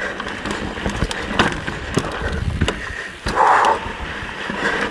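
Mountain bike rolling over a rough, rocky trail: steady tyre rumble with frequent sharp knocks and rattles from the bike, and a brief louder rush of noise about halfway through.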